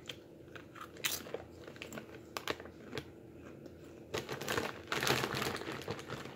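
Crunching and chewing of a taco-flavored Doritos tortilla chip, with a few separate sharp crunches over the first three seconds. Near the end comes a denser run of crackling as the plastic chip bag is handled.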